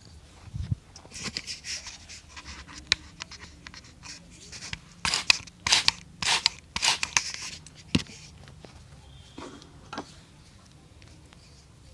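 Hand work on a shoe: a run of short scratchy scraping strokes, loudest in a cluster of four or five strokes in the middle, with a few sharp clicks.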